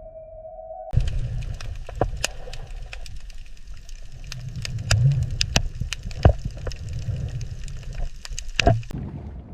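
Underwater ambience: a low rumble with many scattered sharp clicks and crackles. It follows a steady hum that cuts off about a second in.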